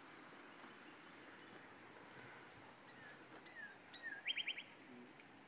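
Faint steady rush of a small running creek, with a songbird calling about three seconds in: a few short down-slurred chirps, then a quick run of four sharp notes.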